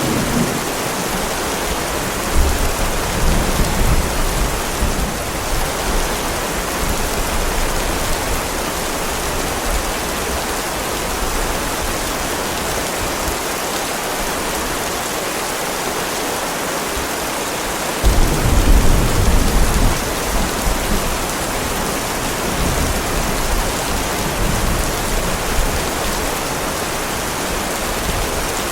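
Heavy rain falling in a steady, even hiss, with low rumbles of thunder: a light roll about two seconds in and a louder, longer rumble a little past the middle.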